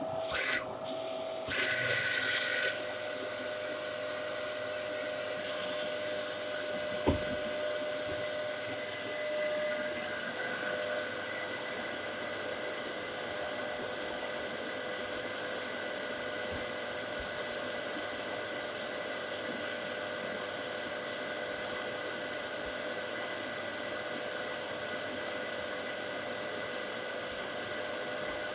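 Dyson DC07 bagless upright vacuum cleaner running steadily, a constant motor whine with a high steady tone over the airflow noise. There are a few short sounds in the first seconds and a single knock about seven seconds in.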